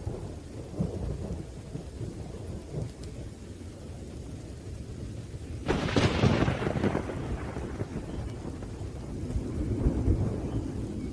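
Thunderstorm with steady rain and low rolling thunder. A sharp thunderclap breaks about six seconds in and fades over a second or so, and the rumble swells again near the end.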